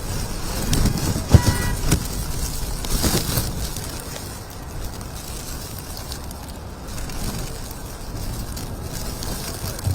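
Outdoor ambience: a low, steady rumble with wind on the microphone, and a single sharp knock about a second in.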